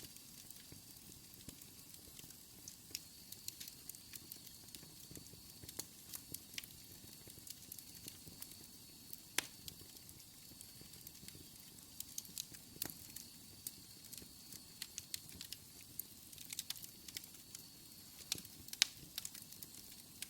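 Wood fire in a fireplace crackling, with irregular sharp pops over a soft steady hiss.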